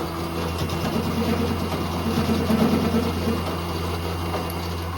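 Metal lathe running, a steady motor hum with some rougher grinding texture about halfway through.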